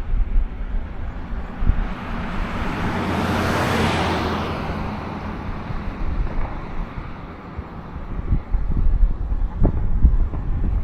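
A vehicle drives past, its tyre and engine noise swelling over a couple of seconds and then fading away, while gusts of wind buffet the microphone with low rumbling thumps.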